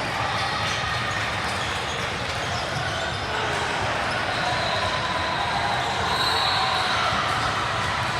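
The sound of a basketball game in a gym: a ball bouncing on the court amid a steady murmur of voices.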